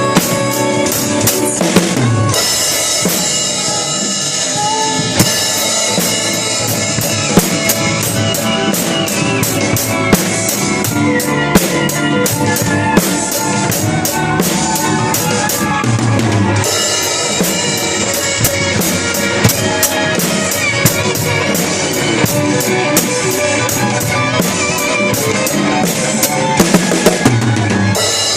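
Drum kit played along with a pop ballad's backing music, with regular bass-drum and snare hits and rimshots.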